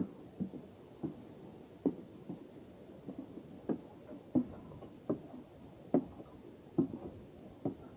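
Footsteps of a hiker walking at a steady pace, a short dull step about every three-quarters of a second.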